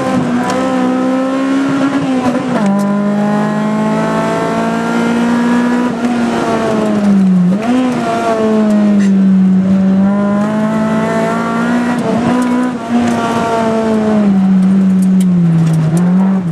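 Tuned Mitsubishi Colt MIVEC engine under hard driving, heard from inside the cabin. The engine note holds high and climbs slowly, drops sharply about three seconds in, then dips briefly and recovers a few more times.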